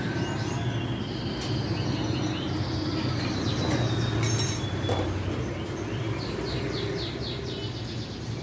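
Small birds chirping in quick repeated twitters over a steady low rumble.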